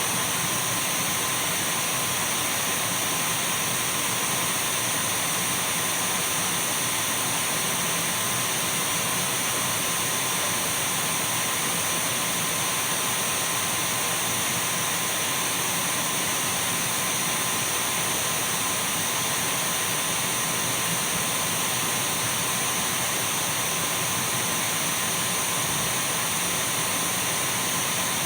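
Dyson V12 cordless stick vacuum cleaner running continuously: an even rush of air with a steady high whine, unchanging in pitch and loudness.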